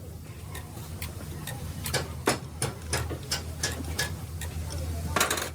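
Sharp metallic clicks and taps from hand tools working on engine parts, about two or three a second at uneven spacing, over a low steady hum. A louder knock comes near the end.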